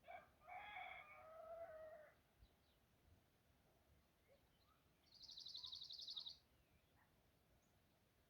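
A rooster crows once, for about two seconds. A few seconds later a small bird gives a rapid, high trill lasting about a second.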